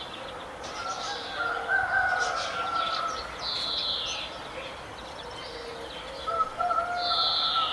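Several birds calling and chirping together, with a high falling note about three and a half seconds in and again near the end, and longer held lower notes between.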